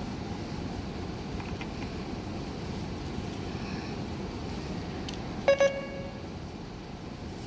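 Two short, loud beeps in quick succession about five and a half seconds in, over a steady low rumble of background noise.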